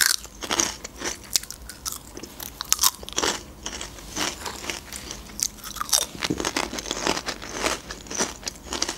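Crunchy packaged onion-ring snacks being bitten and chewed: a steady run of crisp crunches.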